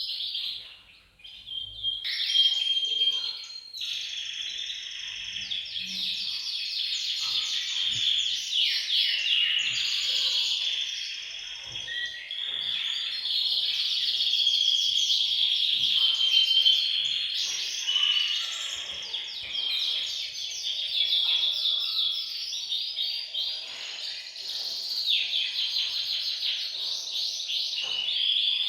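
A group of male domestic canaries singing together: overlapping rapid rolling trills and chirps that run on densely after a brief lull about a second in.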